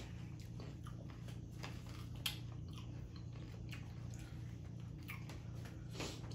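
Close-miked chewing and mouth sounds of people eating, with scattered small clicks over a steady low hum. A sharp click about two seconds in is the loudest sound.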